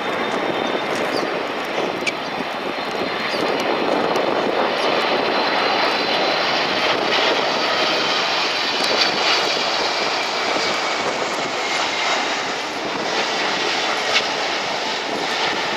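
Jet engines of an Etihad Boeing 777 running: a steady rushing roar with a faint high whine over it.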